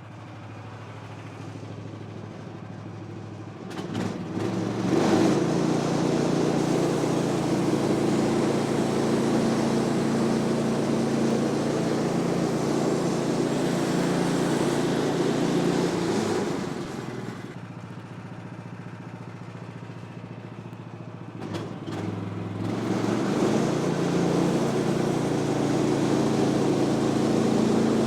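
Gas engine of a Woodland Mills HM126 portable band sawmill idling, then throttled up about four seconds in and running loud and steady as the band blade slabs a walnut log. It drops back to a lower running speed after about 17 seconds, then comes up again for another pass near the end.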